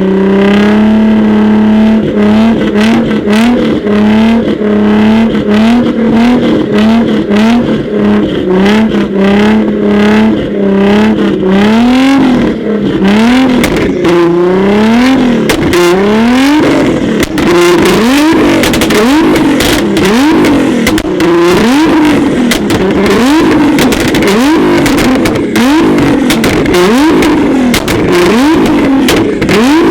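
Tuned car engine being free-revved over and over: a short held rev, then quick throttle blips about two a second, slowing to longer rising-and-falling revs about a second apart. Sharp crackles sound throughout.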